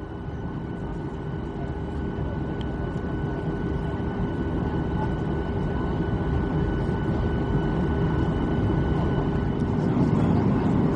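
Boeing 737-800's CFM56 turbofan engines running with a steady whine, growing steadily louder as thrust builds.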